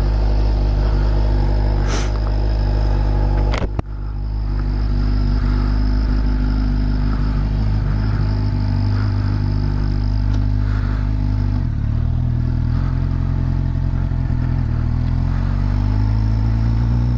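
Suzuki GSX-R 750 inline-four sport bike engine running under way, with a faint, steady high-pitched whistle from a novelty turbo whistle fitted in the exhaust, under the much louder exhaust note. The engine note dips briefly with a click a few seconds in, steps lower about two-thirds through, and climbs again near the end.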